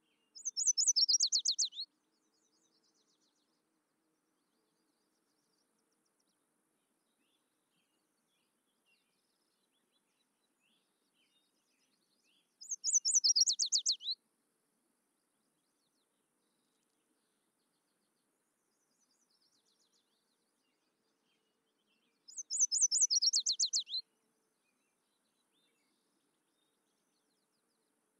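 A bird's song phrase: a rapid run of high notes falling in pitch, lasting under two seconds. The same phrase comes three times, about ten seconds apart, with near silence between.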